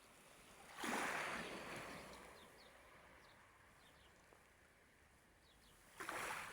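Small sea waves washing in on the shore twice, about a second in and again near the end, each a soft hiss that fades over a second or so.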